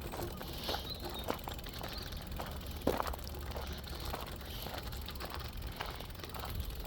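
Bicycle being ridden along a path: a steady low rumble with irregular clicks and rattles, and a louder knock about three seconds in.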